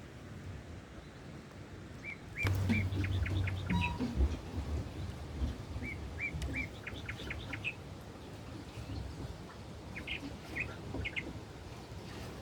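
A small songbird singing three short phrases of quick, high chirps, about four seconds apart. A knock and a short low rumble come with the first phrase.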